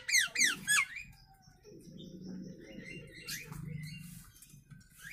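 A jalak nias starling calling: about four loud, quick whistles that each slide steeply down in pitch, followed by low, rough chattering with a few scattered higher notes.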